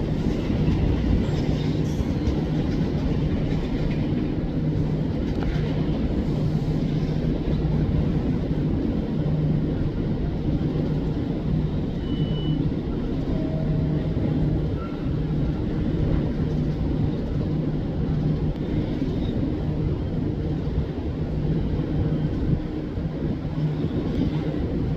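JR Kyushu 783-series electric train running steadily: a continuous rumble of wheels on rail with a low, steady hum.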